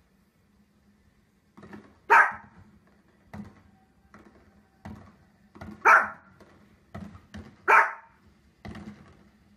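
A small fluffy dog barking: three loud, sharp barks a couple of seconds apart, with quieter short sounds between them.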